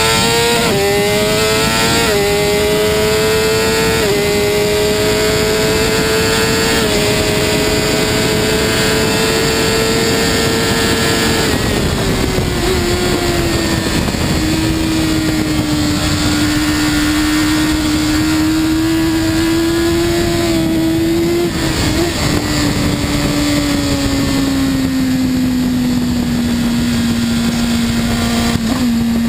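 BMW S 1000 RR inline-four sport bike engine running hard at high revs, pitch climbing through several quick gear changes in the first few seconds and held high, then dropping as the throttle is eased around the middle, holding lower with a short blip, and falling again near the end, over steady wind and road rush.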